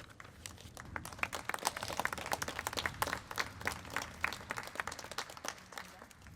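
A small crowd applauding with scattered hand claps, thinning out near the end.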